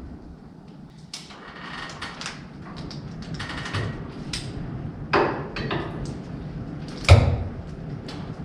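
Steel tarp bracket being handled and fitted against the dump truck bed: a series of metal clanks and knocks, the loudest about seven seconds in and another strong one about five seconds in.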